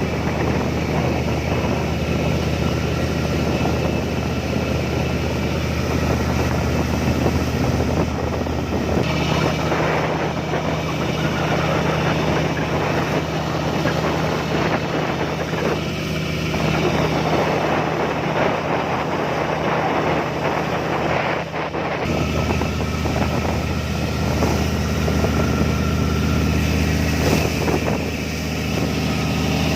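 Boat engine running with a steady low drone, over wind and water noise; its tone shifts about nine seconds in and changes abruptly around twenty-two seconds.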